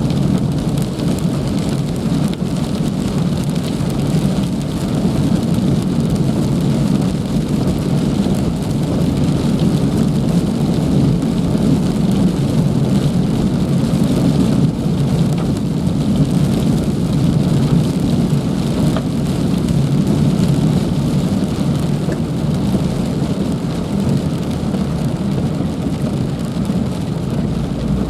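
Heavy rain falling, a steady, unbroken downpour.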